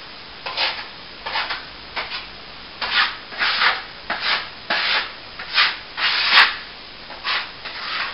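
A hand tool rubbing over a plaster wall in repeated short strokes, about eleven of them, each a brief gritty swish.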